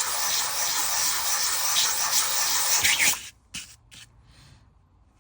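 Water pump casing rubbed in flat circles on emery paper, a steady sanding scrape, to flatten its gasket face after the old gasket was cleaned off so that it seals. The sanding stops suddenly about three seconds in, followed by a couple of short scrapes.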